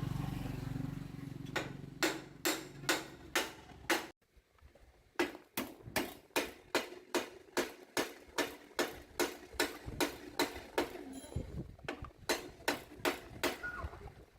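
Hammer blows on metal in a steady rhythm, about two or three a second, with a short pause about four seconds in.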